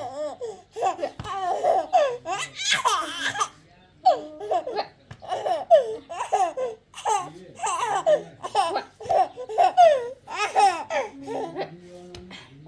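A small child laughing over and over in high-pitched, gleeful bursts.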